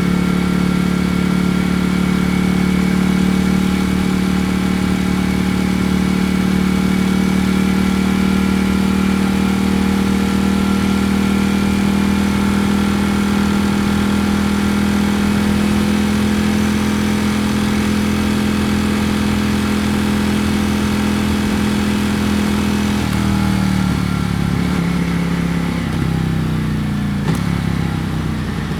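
Ducati Panigale V4 S's 1103 cc Desmosedici Stradale V4 engine running at steady revs under way. Near the end the revs drop in several steps, as on slowing and downshifting.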